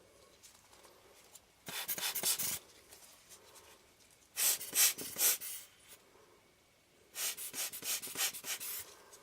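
Lens tissue wiping over a glass lens element in three short spells of quick rubbing strokes, cleaning off dust.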